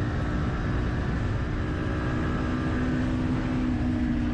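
Motorcycle engine running under heavy wind rush on a rider-mounted camera, its steady note sinking slightly in pitch.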